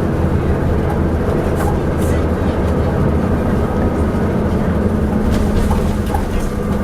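Leyland Atlantean double-decker bus's diesel engine running steadily, with a few sharp clanks and rattles from the bus about a second and a half in, around two seconds in, and again past five seconds.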